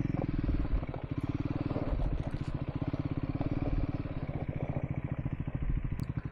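Triumph Scrambler 400 X single-cylinder engine running steadily at low revs while riding, a rapid even pulse of firing strokes.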